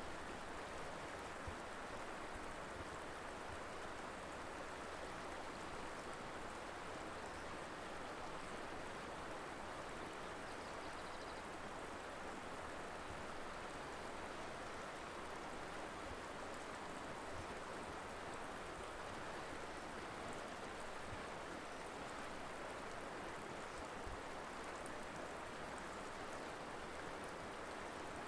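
Colorado River flowing, a steady rushing of water.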